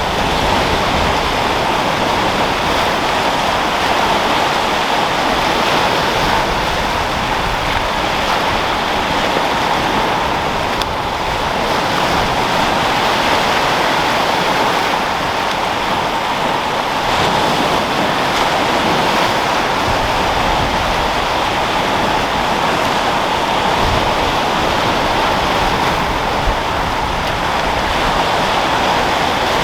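Sea waves rolling in and breaking, with wind blowing; a steady, continuous wash of surf that swells slightly now and then.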